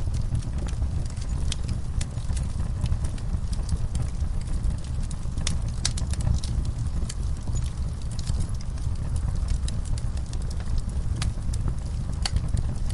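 Horses moving about in a stall, hooves knocking now and then, layered with the irregular pops of a crackling fire over a steady low rumble.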